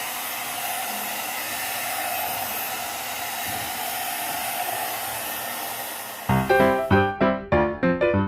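One-step hair dryer and styler (hot-air brush) running on its medium setting: a steady rushing blow with a faint hum. About six seconds in, piano music comes in, and the dryer cuts off a moment later.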